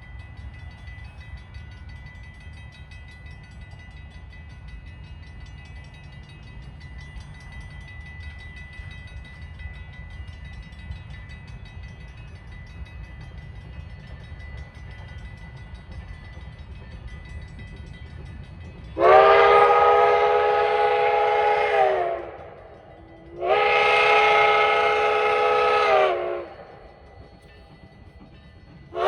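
A steam locomotive standing with a low, steady rumble, then its steam whistle blows two long blasts of about three seconds each, the signal that the train is about to move forward. Each blast dips slightly in pitch as it ends.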